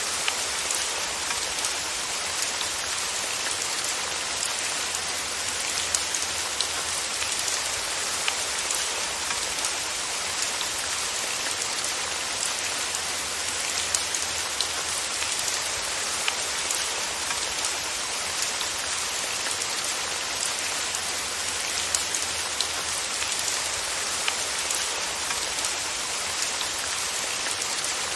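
Steady rain falling, with the light ticks of single drops hitting a surface scattered through the even hiss.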